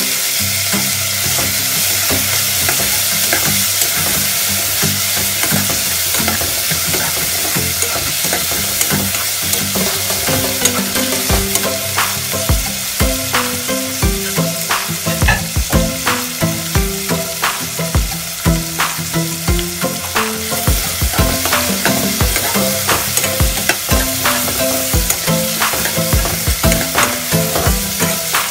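Diced tomatoes and aromatics sizzling in hot oil in a stainless steel pot, with a steady hiss. A metal ladle stirs them, scraping and tapping against the pot, the taps coming more often from about ten seconds in.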